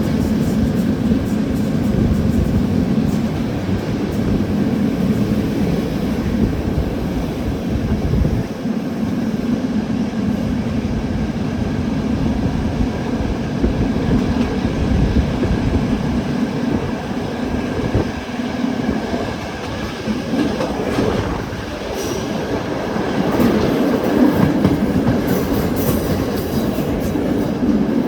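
Train rolling into the station, its wheels clattering over the rail joints with a steady heavy rumble.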